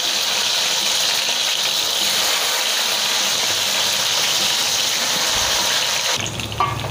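Raisins frying in hot ghee in a pan, a steady, loud sizzle. The high hiss drops off a little before the end.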